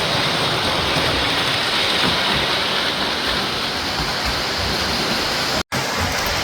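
O-gauge model locomotives running on the layout's track, a steady rolling rumble and hiss of wheels and motors. The sound cuts out for an instant near the end.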